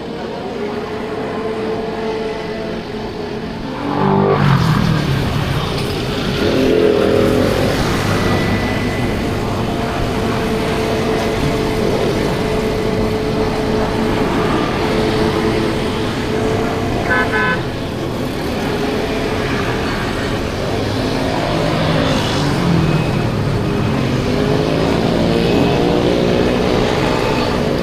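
Riding through dense city motorbike traffic on a 50cc scooter: engines and road noise, louder from about four seconds in, with engine pitch rising as vehicles speed up. A short run of horn beeps sounds about two-thirds of the way through.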